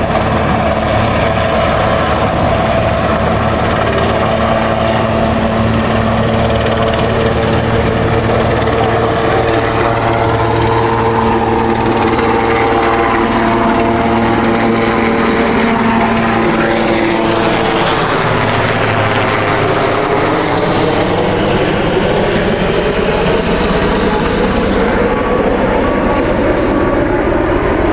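Helicopter flying close by: a steady rotor and turbine sound. About two-thirds of the way in it is at its loudest and brightest, then its pitch slides down as it passes and moves away.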